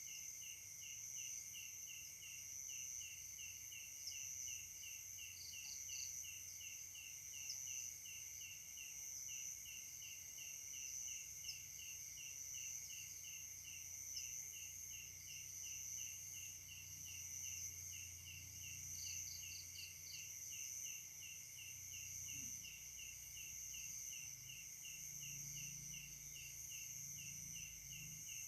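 A chorus of night insects: a steady high buzzing with a regular chirp pulsing about three times a second. Twice there is a short run of quicker, higher chirps, over a faint low rumble.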